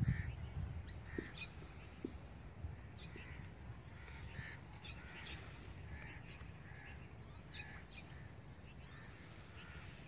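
Birds calling over and over in short calls, one every second or so, above a steady low rumble.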